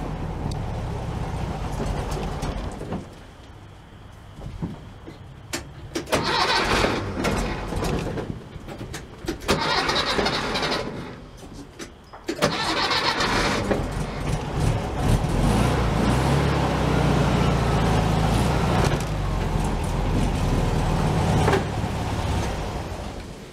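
Air-cooled VW Beetle flat-four engine cranked in three short tries, then catching and running steadily before fading away near the end.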